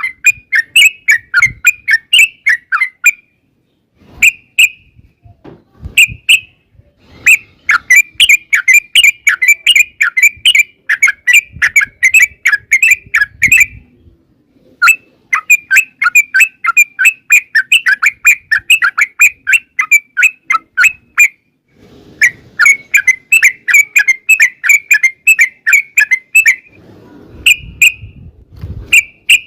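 Yellow-vented bulbul (trucukan) singing long, rapid runs of bubbly chattering notes, several a second. The runs break off in short pauses a few times.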